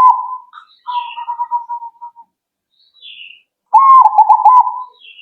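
Zebra dove (perkutut) cooing: a stuttering run of quick low notes, a softer drawn-out coo about a second in, then another full stuttering phrase near four seconds. Faint higher chirps come between the phrases.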